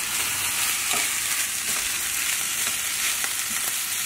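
Kimchi fried rice sizzling in a frying pan while a wooden spatula stirs and scrapes through it: a steady hiss with soft, irregular scraping strokes.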